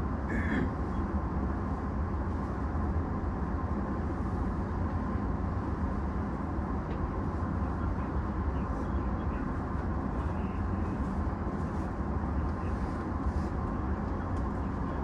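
Steady low hum and fan noise of a stationary E233-series commuter train, its onboard equipment running while it stands still. A faint steady tone lies under the hum, and there is a short higher tone about half a second in.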